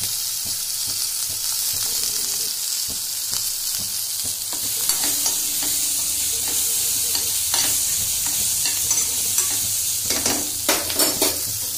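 Chopped green chillies sizzling as they fry in oil in a kadhai, a steady hiss, while a steel spoon stirs them, scraping and clinking against the pan. A quick run of sharper clinks comes about ten seconds in.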